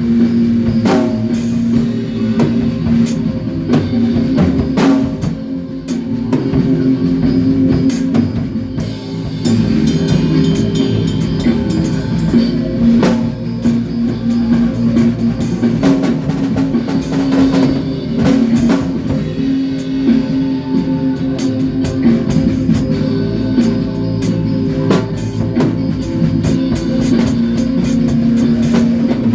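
A band playing at rehearsal: a drum kit with steady kick and cymbal hits, with guitar and sustained low bass notes throughout.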